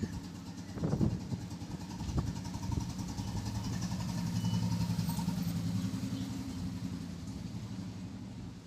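A motor vehicle's engine passing by: a steady low hum that grows louder to a peak about halfway through, then fades away. A few sharp clicks sound near the start.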